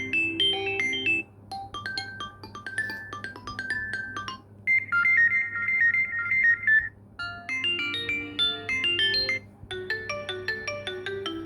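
Redmi A2 phone loudspeaker playing its built-in ringtones, one short electronic melody after another, switching to a new tune every couple of seconds. The sound is loud but thin and harsh, with no bass at all.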